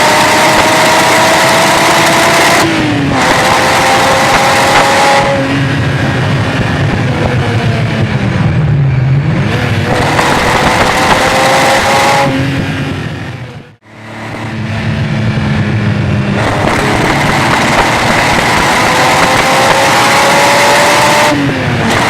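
Ferrari Testarossa flat-12 engine through a Larini exhaust, pulling hard with its pitch climbing and then dropping sharply at upshifts about three and five seconds in. The revs fall away for a few seconds, then climb again. The sound cuts out briefly about halfway through, then the engine pulls again.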